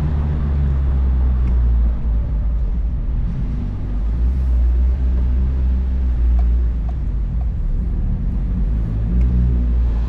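2004 Mazdaspeed Miata's turbocharged 1.8-litre four-cylinder engine running through a Flyin Miata cat-back exhaust, a steady low drone. It eases off briefly about two seconds in and again near four seconds.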